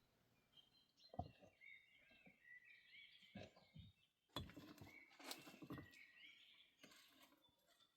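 Faint birdsong, wavering high chirps running through, with a few soft knocks.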